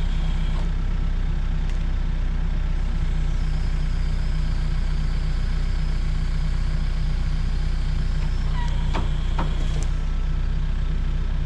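Forklift engine running steadily with a low, even drone while it handles a load of timber. A faint high whine comes in for a few seconds in the middle, and a few sharp clicks sound near the end.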